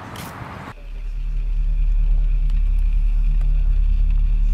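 Steady low rumble of a car engine idling, heard from inside the car, setting in about a second in after a brief stretch of outdoor noise.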